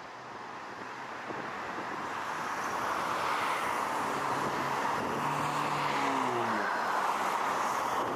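Jet airliner passing overhead: a broad roar that builds over the first few seconds and then holds, with a low engine tone sliding down in pitch about halfway through as it goes by.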